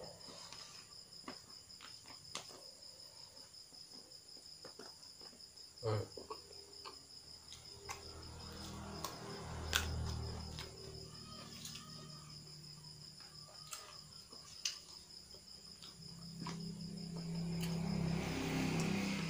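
Crickets trilling steadily in a high, fast pulsing tone, with scattered sharp clicks and taps and a low murmur that swells near the end.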